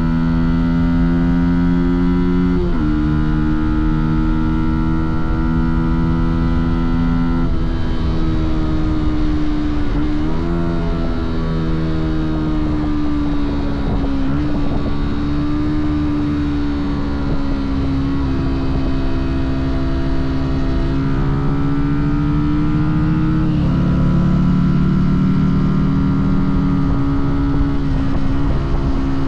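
Fantic Caballero 125's single-cylinder four-stroke engine and exhaust under way on a ride, the note dropping or jumping abruptly a few times and otherwise rising and falling slowly with the throttle, over steady wind and road rumble.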